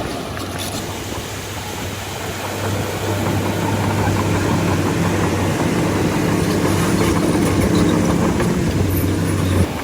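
Heavy diesel engine of a bulldozer running with a steady low hum, growing louder about a third of the way in and stopping abruptly near the end.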